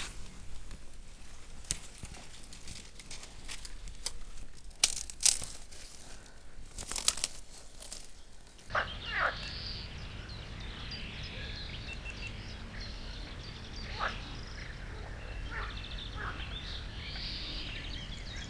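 Irregular crackling and rustling handling noises, then after an abrupt change, outdoor ambience with a steady low hum and scattered short, falling bird chirps.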